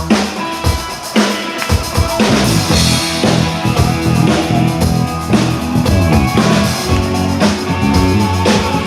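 Live rock band playing an instrumental passage: a drum kit beating a steady rhythm over bass and other instruments.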